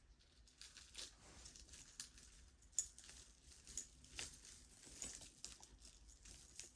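Jewelry pieces clinking and rattling faintly as they are handled and sorted: an irregular scatter of small metallic clicks.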